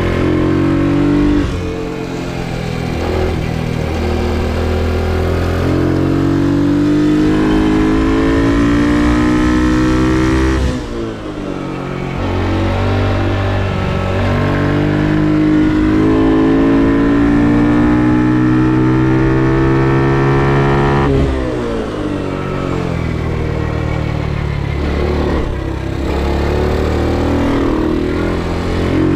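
Ohvale GP2 110 mini motorcycle's single-cylinder four-stroke engine under hard acceleration. The pitch climbs steadily through long stretches of throttle. It drops sharply about a third of the way in and again about two-thirds in as the throttle is closed for braking, then climbs again.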